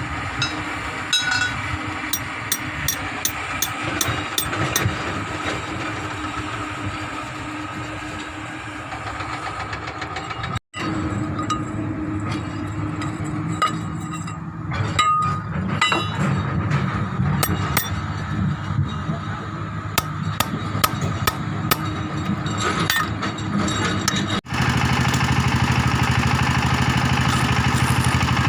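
Excavator's diesel engine running steadily, with repeated light metallic clicks and taps of tools on metal. Near the end the engine sound gets louder and steadier.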